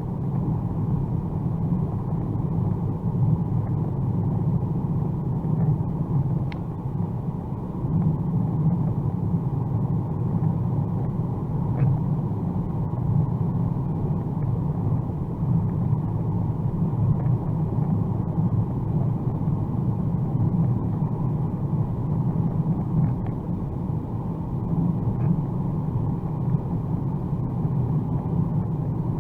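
Steady low drone inside the cabin of a 2021 Mercedes-AMG A35 at motorway speed: engine and tyre noise on a wet road, with a few faint ticks.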